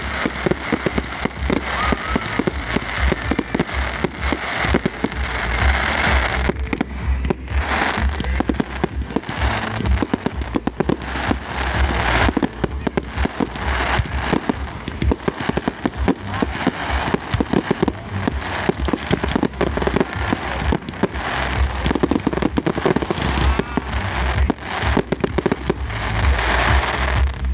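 Bonfire night fireworks display: a dense, continuous barrage of bangs and rapid crackling, with heavier stretches of crackle near the start and near the end.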